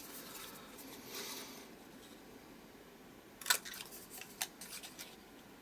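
Soft paper rustling, then sharp clicks from a handheld craft paper punch being handled, two of them about halfway through and a few fainter ticks after.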